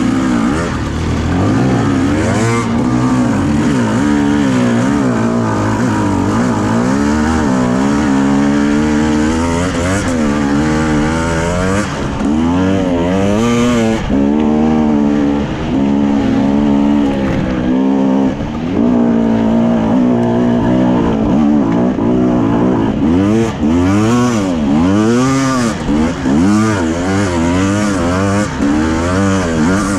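Enduro motorcycle engine being ridden hard off-road, its revs rising and falling over and over, every second or two, as the throttle is worked.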